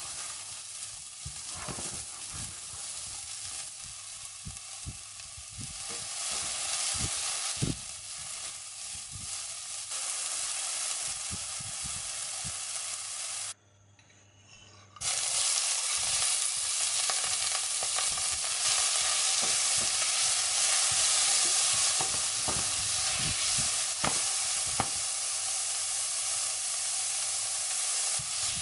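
Diced carrot, asparagus and shiitake sizzling in a nonstick pan while a silicone spatula stirs them, with scrapes and light knocks. After a brief near-silent break about halfway in, a louder, steady sizzle of chopped prawns frying in hot oil on high heat, with spatula taps.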